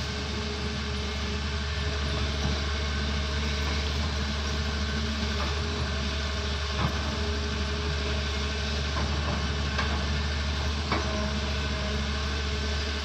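Doosan excavator's diesel engine running steadily, with two sharp knocks about seven and eleven seconds in.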